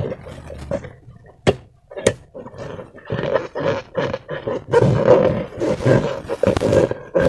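Slime being squished and worked by hand, a run of sticky, wet squelching and crackling noises. Two sharp clicks sound during a quieter stretch about a second and a half and two seconds in, and the squelching grows denser near the end.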